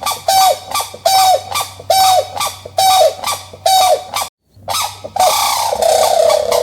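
Farm waterfowl giving short, honking calls in a steady series, about one a second; a brief cut to silence comes just after the middle, followed by a longer, drawn-out call.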